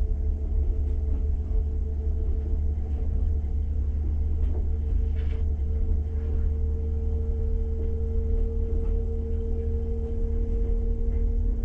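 Steady deep rumble of a moving passenger train heard from inside the coach, with a steady hum above it.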